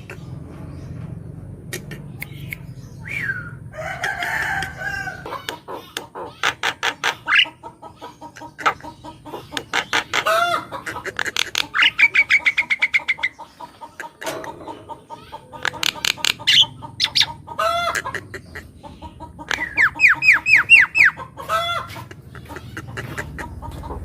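Javan myna singing a long, varied song: harsh rasping squawks, rapid runs of sharp clicking notes, and short whistled phrases.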